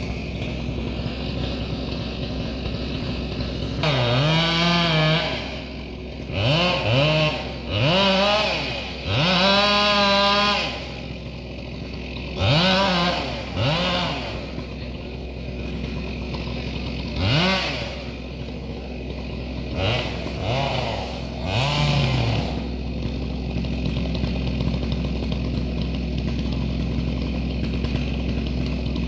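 Chainsaw idling, revved up to high speed about nine times in short bursts, each a second or two long, through the middle stretch before settling back to idle.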